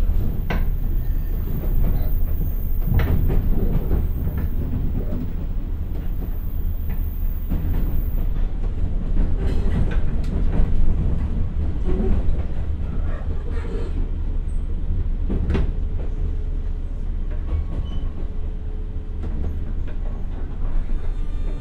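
Inside a JR West 201 series electric train's motor car running at about 30 km/h: a steady low rumble of wheels and running gear, with occasional sharp clicks from the wheels passing over rail joints.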